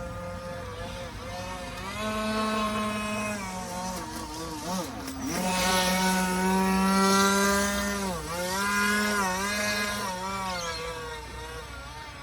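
Motor of a radio-controlled model boat running on the water, its pitch climbing and dropping repeatedly as the throttle is opened and eased: a steady whine that surges louder in the middle and dips briefly about eight seconds in.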